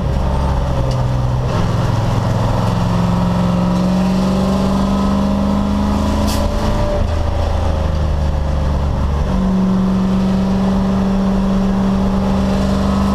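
Race car engine running hard, its pitch shifting in steps a few times and drifting between them.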